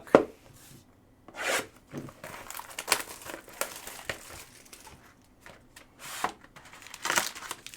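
Trading-card box packaging being torn open by hand: plastic wrap crinkling and tearing in irregular rustles, with a louder rip about a second and a half in and again near the end.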